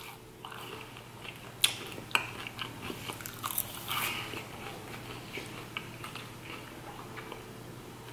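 A person chewing a McDonald's chicken nugget dipped in sauce: scattered small clicks and smacks of the mouth, with two sharper ones about one and a half and two seconds in.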